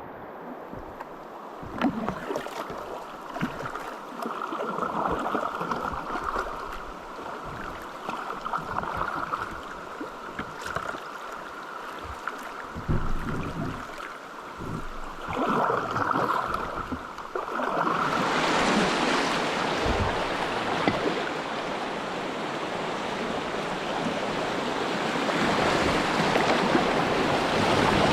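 River water rushing and splashing around a kayak, with scattered splashes; the rushing grows clearly louder about two-thirds of the way through.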